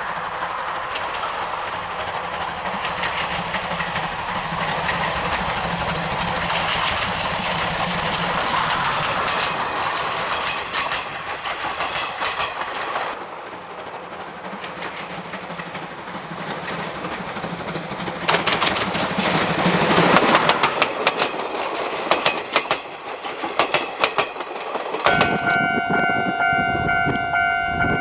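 C12 66 tank steam locomotive working hard, its exhaust chuffing in fast, even beats with the rattle of the passing train. The sound changes abruptly twice. About 25 seconds in, the locomotive's steam whistle sounds one long steady blast over the running train.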